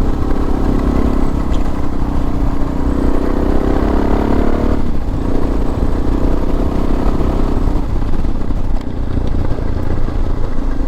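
Suzuki DR650's single-cylinder four-stroke engine running steadily under way, with wind rumble. The engine's pitch climbs from about three seconds in, drops sharply at about five seconds, then settles back to a steady pace.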